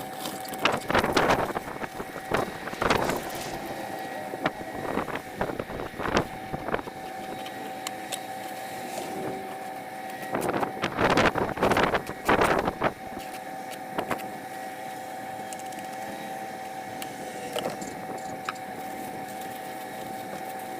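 Metal snow shovel scraping and knocking on snowy pavement in a series of strokes, the loudest clustered about a second in and again around eleven to twelve seconds, over a steady engine hum.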